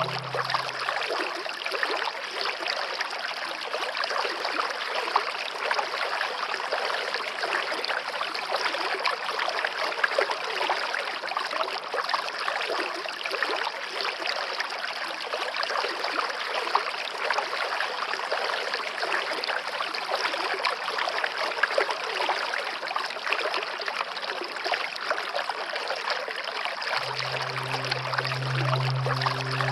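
Stream water running and babbling steadily. A low musical drone fades out about a second in and comes back near the end.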